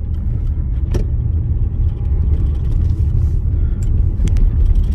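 Dodge Journey's engine idling with a steady low rumble, with a few light clicks.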